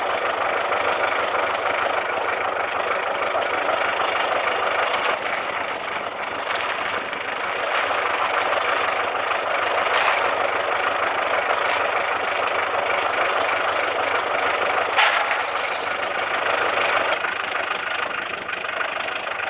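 Engine of peanut-planting farm machinery running steadily, with a regular light ticking on top.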